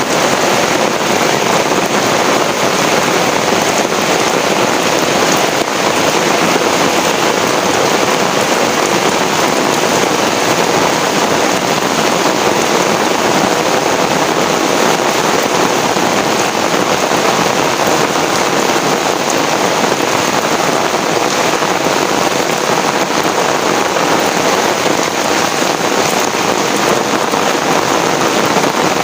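Heavy rain falling steadily, a loud, even hiss of rain on surfaces with no breaks or thunderclaps.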